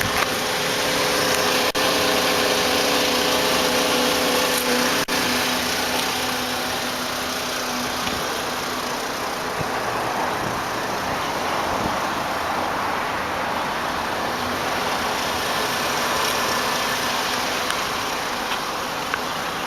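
The 2.5-litre five-cylinder engine of a 2005 Volkswagen Jetta idling steadily. About halfway through, the engine's tone fades under a broader, even rushing noise.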